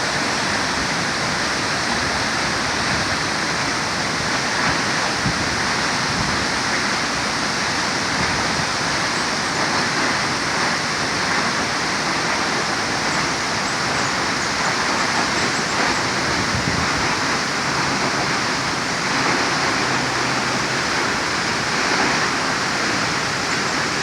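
Upper Multnomah Falls: the steady, unbroken rush of falling water.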